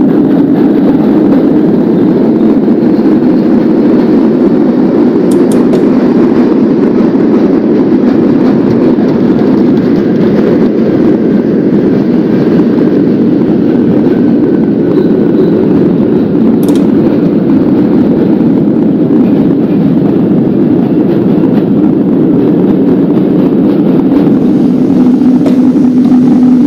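Subway train running steadily along the track, a loud, even rumble that does not let up.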